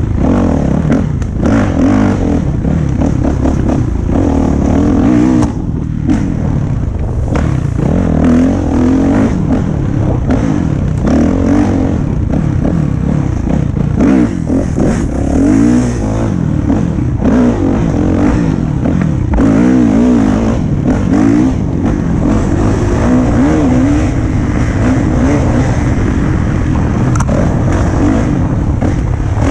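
Dirt bike engine running under load on a trail, its pitch rising and falling over and over as the throttle opens and closes.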